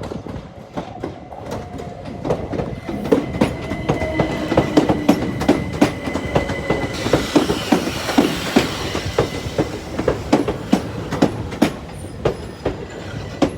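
A train running past, its wheels clacking over rail joints in a fast, steady rhythm, with a steady high whine through the middle. It grows louder over the first few seconds.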